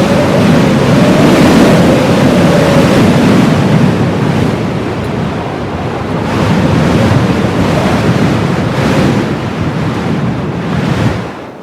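Heavy blizzard wind blowing in swelling gusts, with a faint howling tone in the first few seconds. It falls away sharply near the end.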